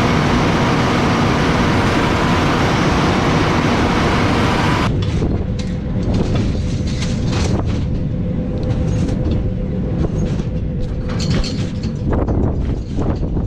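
Tractor and baler machinery running, a loud, steady, heavy mechanical noise. The sound changes abruptly about five seconds in and again near the end, as if switching to another machine or position.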